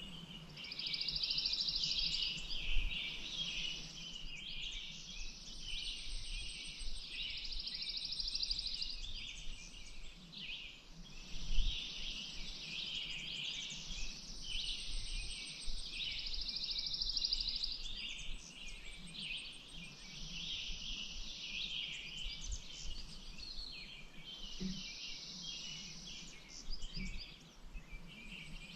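Many birds chirping and calling together, with a high buzzing trill of about two seconds coming back every few seconds.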